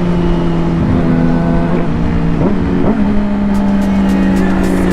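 Yamaha R6 inline-four sportbike engine running steadily under power, its note dipping and jumping briefly a few times in the middle as gears change. Wind rushes over the helmet microphone.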